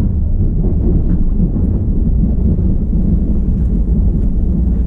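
Steady low rumble of a Kintetsu Hinotori limited express electric train running through an underground tunnel, heard from inside the front car.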